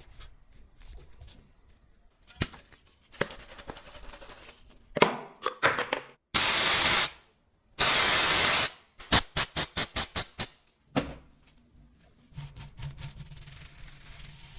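Workshop tool and handling noises: scattered clicks and knocks, then two loud hissing bursts of about a second each, a quick run of about eight sharp clicks, and a low steady hum from about twelve seconds in.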